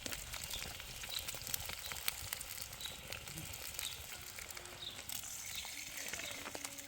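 Rain pattering steadily: a dense, even crackle of many small drops, with faint short high chirps repeating through it.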